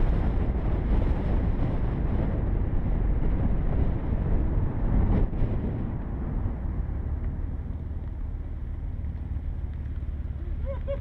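Car driving at speed, with heavy wind noise on the microphone. The noise eases off about six seconds in.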